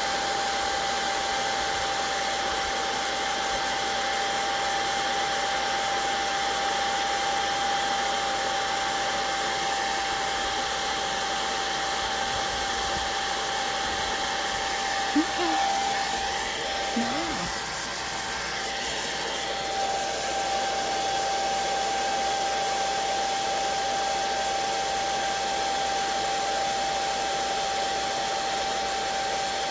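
Hand-held hair dryer running steadily with a constant whine, blowing across wet watercolor and ink to dry them. Its sound wavers and dips briefly about halfway through.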